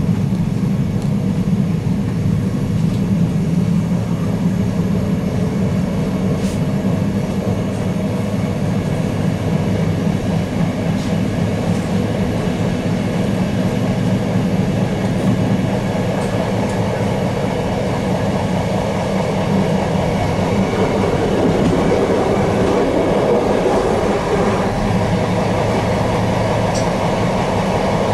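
TLK passenger train running along the track, heard from on board: a steady rumble of wheels and running gear with a few faint clicks.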